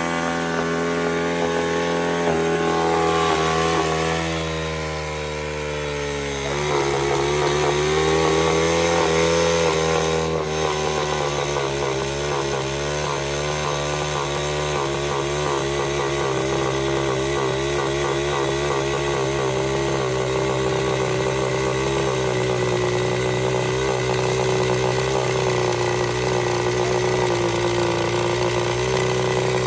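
Chinese dirt bike's small engine running hard at high revs, held near full throttle in an attempt to blow the motor. Its revs sag for a few seconds, pick back up about seven seconds in, then hold steady and fast.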